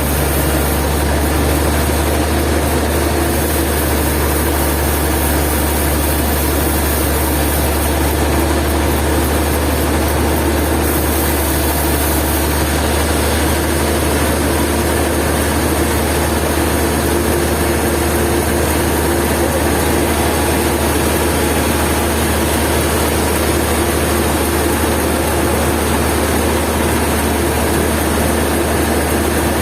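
Sawmill machinery running steadily, a constant loud low hum with a wide even noise over it and no change in pitch or level.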